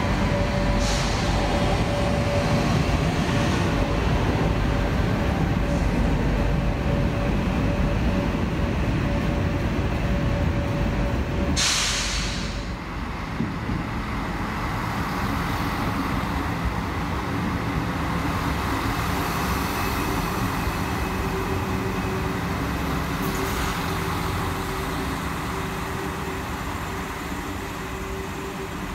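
Train in a railway station: steady low rumble with a steady hum, and a short, sharp hiss of compressed air about twelve seconds in. A lower hum sets in a few seconds after the hiss.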